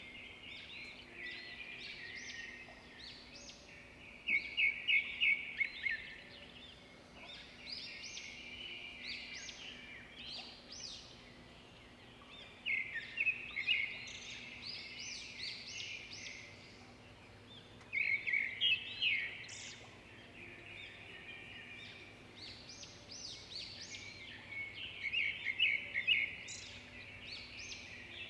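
Small songbirds chirping and twittering, with four louder flurries of rapid trilled chirps spread through.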